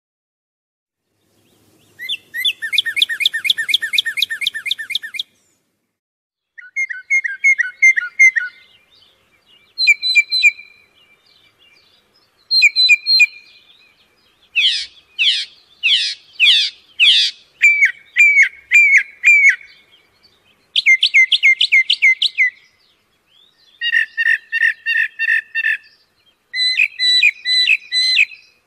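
A songbird singing in short phrases of rapid repeated notes, each phrase lasting one to three seconds with brief pauses between, starting about two seconds in.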